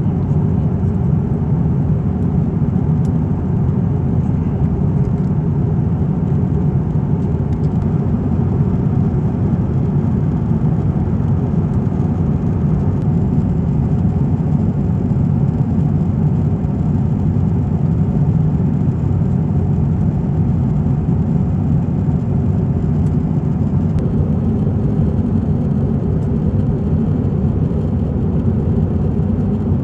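Steady cabin noise inside an Airbus A350-900 in flight: a constant low rush of airflow and Rolls-Royce Trent XWB engine drone, heard from a seat in the rear of the economy cabin.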